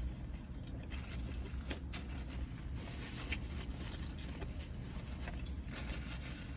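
Quiet eating sounds: scattered soft clicks and mouth noises of chewing and handling fried chicken, over a steady low hum.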